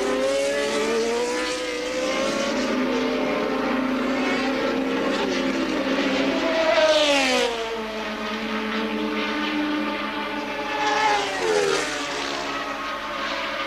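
1983 Formula One cars running at racing speed, several engines heard at once. A car passes close about halfway through and another near the end, each louder and dropping in pitch as it goes by.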